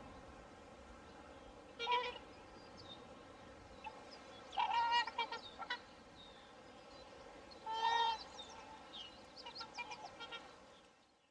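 Swans calling: short honking calls at first, then a longer run of honks about halfway through, another about 8 seconds in, and a quick series of shorter calls near the end, over a steady background hiss, before the sound fades out.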